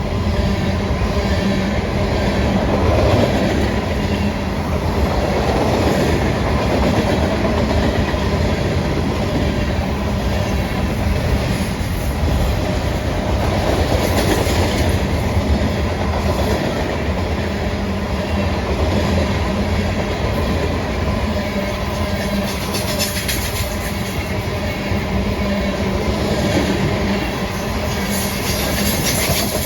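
Train passing close by, its cars rolling steadily with the steel wheels clattering over the rail joints.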